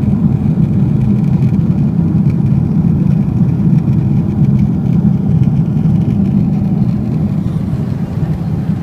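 Loud, steady rumble of a Boeing 777-300ER's GE90 jet engines and airflow heard inside the cabin, easing slightly near the end.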